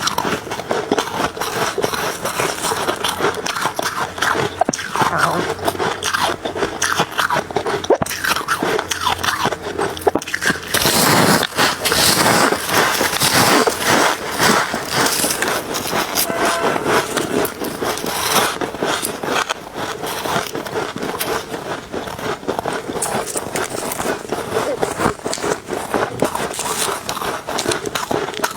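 A person biting and chewing crunchy freezer ice close to the microphone: a dense, continuous crunching, louder for a few seconds a little before the middle.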